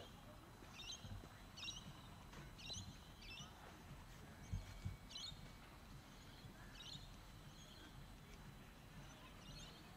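A bird repeats short, high chirps roughly once a second over faint background noise, with two soft low thumps about halfway through.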